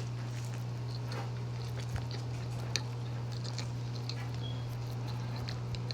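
A person chewing a mouthful of chicken sandwich, with small soft wet mouth clicks, over a steady low hum.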